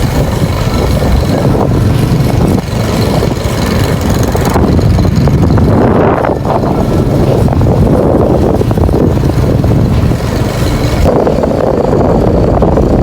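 Loud street traffic with engines running and a steady rumble, changing abruptly a few times.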